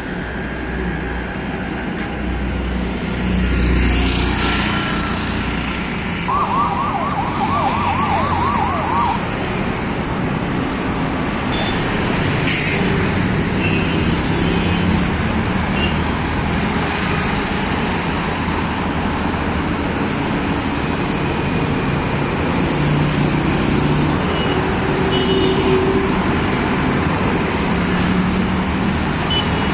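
Continuous noise of passing highway traffic. About six seconds in, a rapid warbling siren-like tone repeats roughly three times a second for about three seconds. A few short horn toots sound later on.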